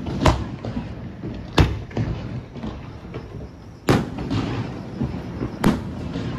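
Aerial firework shells bursting overhead: four sharp bangs spread over about six seconds, each trailing off into a rolling rumble.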